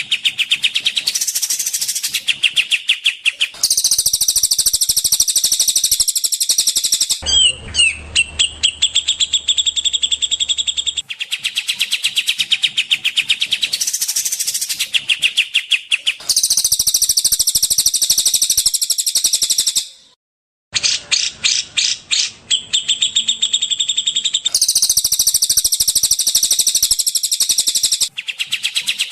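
Songbirds singing fast, high-pitched rattling trills and chirps, in spliced segments that switch abruptly every few seconds, with a brief gap about 20 seconds in.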